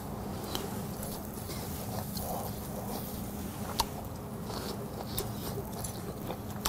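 A man chewing a mouthful of charcoal-grilled beef tongue, whose meat has a slightly crunchy bite. There is a single sharp click about four seconds in, as metal tongs touch the grill grate.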